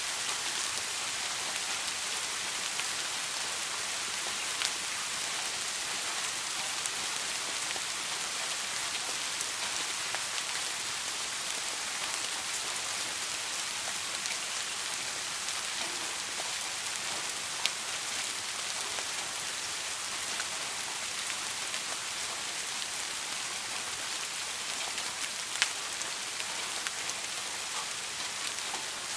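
Steady soft rain: an even patter of drops, with a few louder single drops standing out about five, eighteen and twenty-six seconds in. No thunder is heard.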